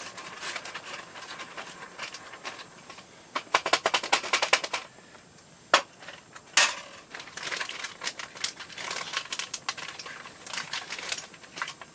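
A spoon stirring a rehydrating freeze-dried meal in its foil pouch: bursts of rapid clicking, scraping and crinkling, with a single sharp click about six seconds in.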